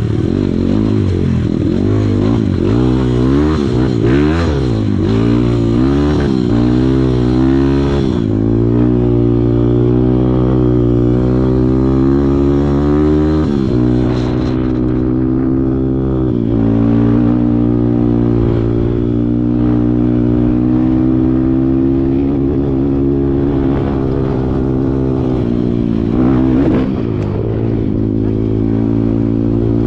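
Kawasaki KLX140 trail bike's single-cylinder four-stroke engine running under load, its revs rising and falling with the throttle. It settles to a steadier pitch about eight seconds in, with brief dips in revs now and then.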